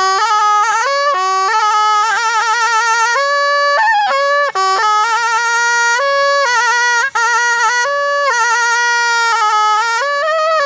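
Thai pi, a reed oboe, playing a solo melody with quick trills and wavering ornaments on held notes. There are brief breaks in the sound twice, about four and a half and seven seconds in.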